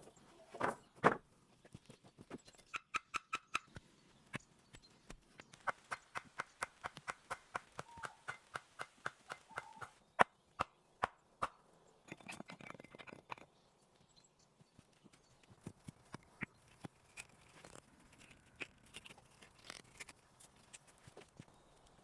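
Rapid series of sharp knocks, about three to four a second, several of them ringing with a clear tone, from blows struck during hand building work. A short scraping rustle comes a little past the middle.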